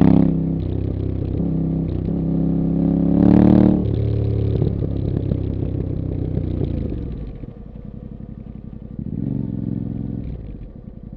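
Yamaha Tenere 700's 689 cc parallel-twin engine breathing through a Camel ADV rally-bend exhaust, running under throttle with a louder rise about three and a half seconds in. The throttle comes off around seven seconds and the engine settles to a low, quieter run, with a short blip of revs near the end.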